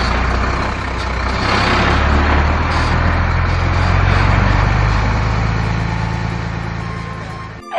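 A heavy motor vehicle's engine running, like a truck or bus, with a loud rushing noise over a low engine hum. It starts abruptly and cuts off suddenly near the end.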